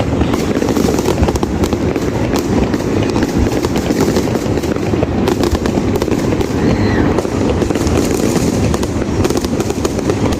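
Fireworks display going off without a break: rapid, overlapping bangs and crackles.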